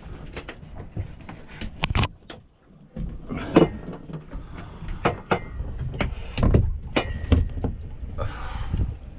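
Irregular knocks, clunks and scrapes of gear being handled aboard a small boat, with a few short squeaks and a brief hiss near the end.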